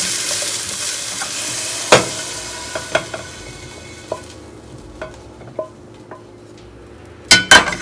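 Red bell pepper strips sizzling in oil in a nonstick pan while being stirred with a wooden spatula, with light knocks of the spatula against the pan. The sizzle dies away over the first four seconds as the pan comes off the gas flame, and two loud knocks come near the end.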